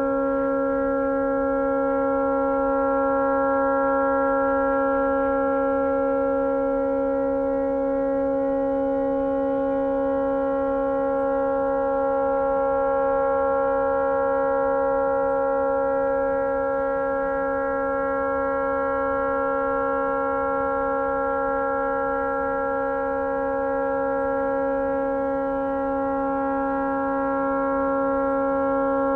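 A tugboat's stuck air horn blaring continuously, a steady multi-note chord that does not let up: the horn has malfunctioned and cannot be shut off.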